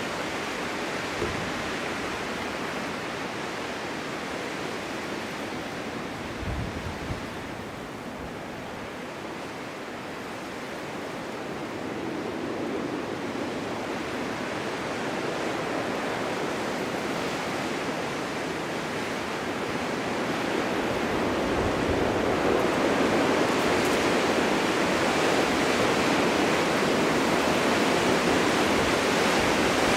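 Winter wind blowing in a snowstorm, a continuous rushing that eases a little, then swells and grows louder through the second half. A couple of brief low thuds come in the first seven seconds.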